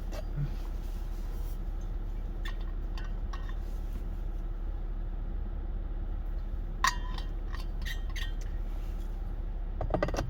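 Scattered light clicks and clinks of food and packaging being handled while eating, the sharpest about two-thirds of the way in, over a steady low room hum.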